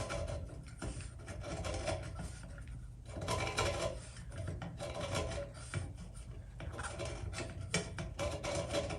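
A sharpened drill-bit scriber on a home-made depth gauge scratching a line around a metal tube, in repeated uneven scraping strokes.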